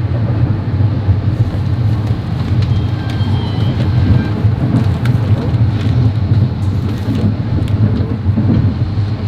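A passenger train running, heard from on board: a steady low rumble and wheel-and-carriage noise with scattered sharp clicks and rattles.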